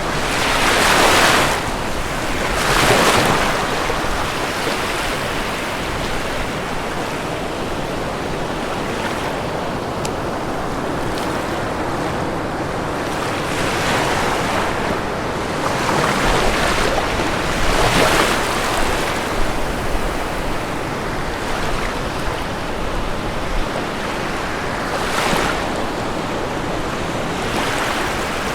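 Ocean waves breaking on a shore: a steady wash of surf, with louder waves breaking every few seconds.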